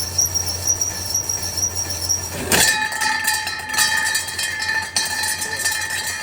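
Metal lathe running with a steady hum and a high whine. About two and a half seconds in, the cutting tool bites into the spinning stainless steel piece, which rings with a steady metallic tone amid rapid chattering clicks.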